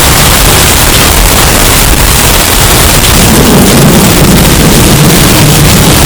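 Hurricane wind sound effect, heavily bass-boosted and overdriven into constant loud distortion, with a deeper rumble swelling from about three seconds in.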